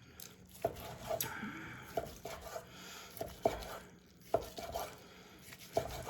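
Knife slicing a grilled ribeye steak on a cutting board: a run of about ten short knocks as the blade comes down through the meat onto the board, irregularly spaced.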